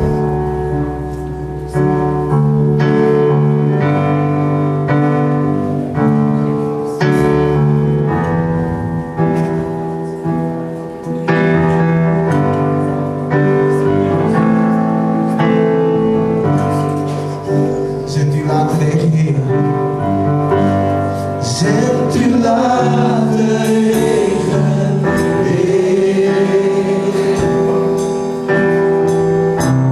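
Church praise team performing a gospel worship song: group singing over a steady instrumental accompaniment.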